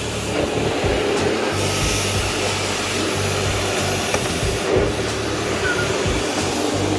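Vacuum cleaner running steadily as it cleans a carpet, a constant rushing whine over a low hum.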